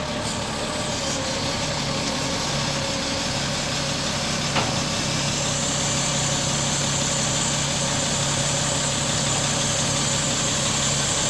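Heavy diesel engine idling steadily, with a single short click about four and a half seconds in.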